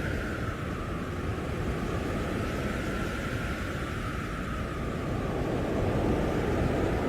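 Blizzard wind blowing hard, with a deep rumble of gusts and a howling whistle that slides down in pitch within the first second, then holds steady.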